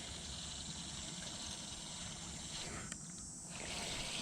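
Faint, steady outdoor background hiss over a low rumble, with no distinct event.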